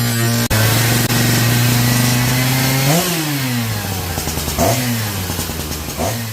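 Husqvarna two-stroke chainsaw engine running at a steady speed, then revved up and let back down three times, about a second and a half apart.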